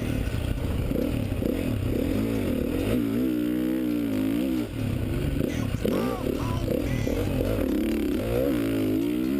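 2013 Honda CRF450's single-cylinder four-stroke engine on a motocross track, revving up and down as the throttle is worked. Its pitch rises and falls several times, with a brief throttle-off about four and a half seconds in.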